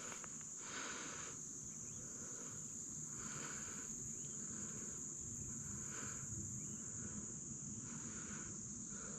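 A steady, high-pitched insect chorus, with softer pulsing calls about once a second and a low, even rushing noise underneath.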